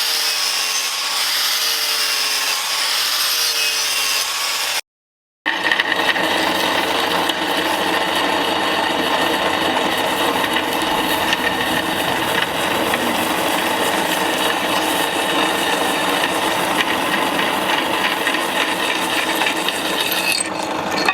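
A power tool working wood. For about five seconds its pitch rises and falls with each pass; after a brief gap it runs on more steadily.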